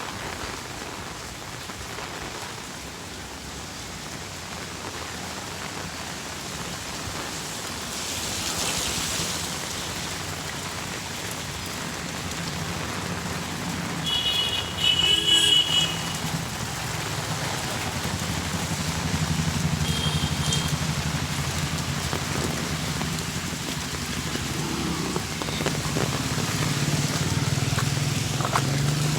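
Steady rain falling, with the low hum of passing vehicle engines growing louder in the second half and a brief high-pitched beep about halfway through.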